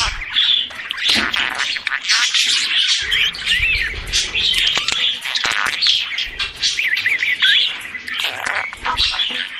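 Budgerigars chirping and warbling in continuous, rapid chatter, with quick rising and falling notes and sharp clicks mixed in.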